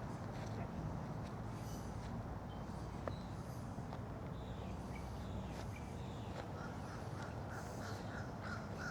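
Birds calling repeatedly over a steady outdoor background of noise, with a quick run of short calls near the end.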